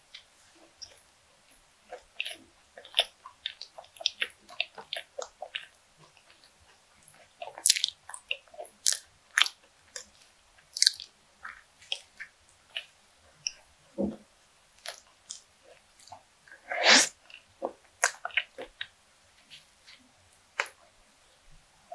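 Close-miked chewing and biting of a fried bakery croquette with a breadcrumb crust: a steady stream of short, sharp, moist clicks and crackles. Louder bites come about eight and seventeen seconds in.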